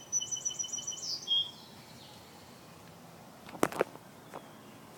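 A small bird chirping: a quick run of high, clear notes that speeds into a short trill and stops about a second and a half in. Two sharp clicks come a little past the middle.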